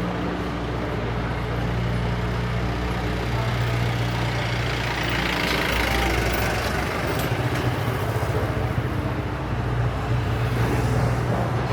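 A motor vehicle's engine idling close by amid street traffic noise, with a louder swell about halfway through.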